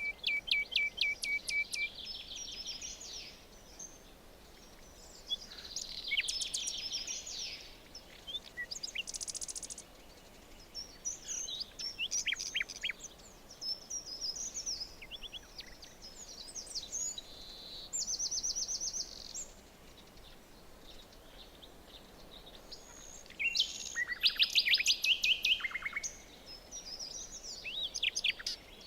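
Several songbirds singing in the forest, with different phrases of rapid chirps and trills coming in bursts every few seconds over a faint steady background hiss.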